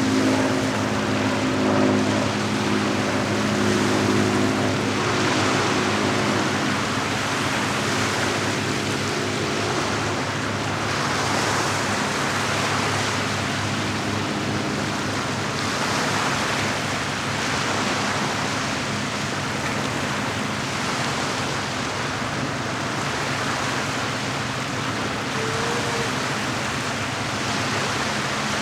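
Lake waves washing in, swelling about every five seconds. A boat engine hums low under them and fades out about six seconds in.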